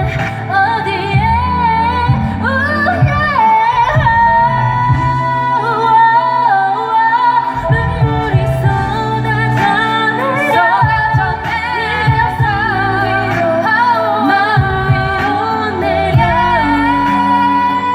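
Korean pop song performed live: female vocals singing a wavering melody over a pop backing track.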